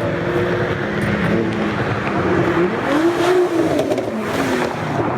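Car engines running hard in a street race, with one engine note rising and then falling about three seconds in as a car accelerates past.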